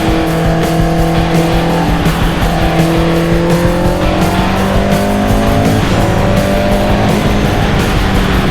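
Race car engine pulling hard, its pitch rising steadily, then dropping sharply for a gear change about six seconds in before climbing again, with music underneath.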